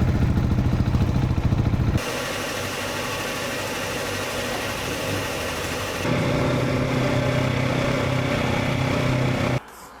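Motorcycle engines running, in three short cut-together clips. The first and last have a strong even engine hum; the middle clip, from about two to six seconds in, is more of a steady rushing noise. The sound drops away abruptly just before the end.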